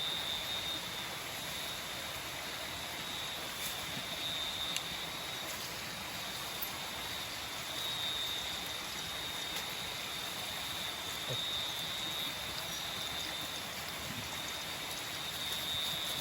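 Steady rush of water with a high, even insect trill on top that swells and fades every few seconds: tropical forest insects calling at night.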